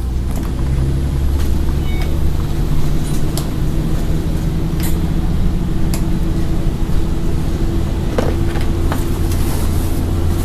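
Scania N113 bus's inline-six diesel engine running under load, heard from inside the cabin as a steady low drone that builds up at the start, with scattered clicks and rattles from the bodywork.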